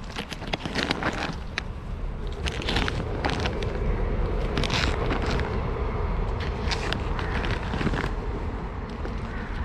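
Wind buffeting the microphone: a steady low rumble with scattered short crackles.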